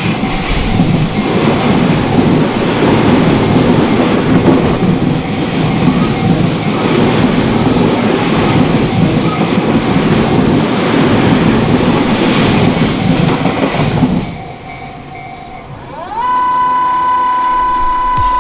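Electric commuter train passing over a level crossing: a dense rumble of wheels on rail that drops away about fourteen seconds in. About two seconds before the end, a loud steady high tone with overtones begins.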